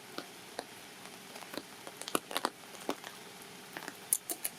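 Rain falling, with irregular drops striking surfaces close by as scattered short clicks over a steady hiss; a quick run of sharper, higher clicks comes near the end.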